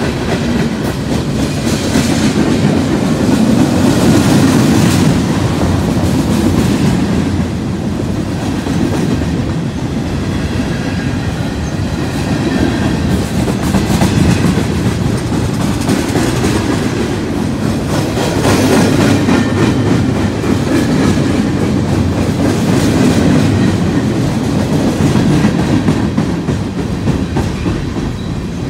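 Union Pacific freight train's cars rolling past close by: a steady, loud rumble with the rhythmic clickety-clack of steel wheels over rail joints. The sound swells and eases as the cars go by.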